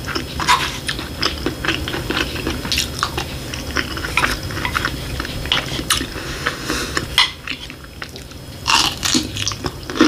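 A person chewing a mouthful of food with repeated crisp, crackling crunches. There is a short lull a little past the middle, then louder crunching near the end.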